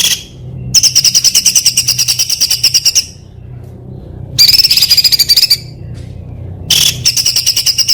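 A songbird singing fast, high-pitched runs of rapidly repeated notes, in three bursts with short pauses between them: the rapid-fire 'tembakan' song used as training song for contest birds.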